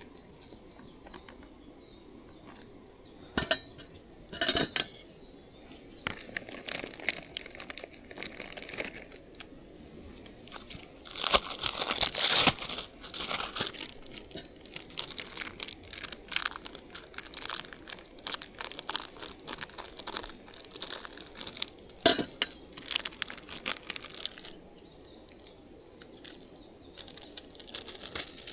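Wrapping being crinkled and torn by hand in irregular bursts of crackling, busiest about halfway through, with a few sharp single snaps.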